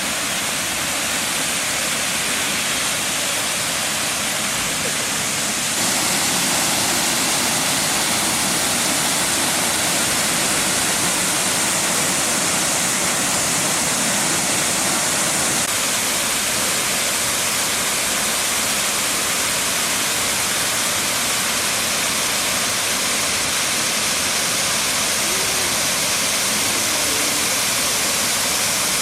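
Waterfall rushing: a steady, dense roar of falling water. It grows slightly louder about six seconds in.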